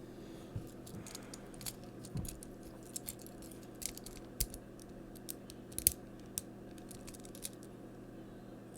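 Small plastic Transformers figure parts clicking and snapping irregularly as they are handled and transformed, with the sharpest click about six seconds in, over a steady low hum.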